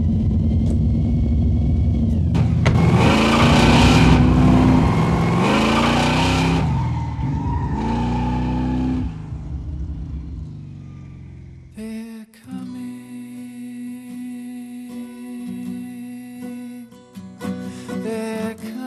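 Car engine revving hard as the car speeds away, the pitch climbing three times through the gears before it fades out. Guitar music for the end credits starts about twelve seconds in.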